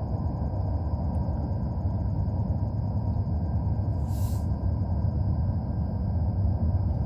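Freight train rolling past, a steady low rumble, with a brief hiss about four seconds in.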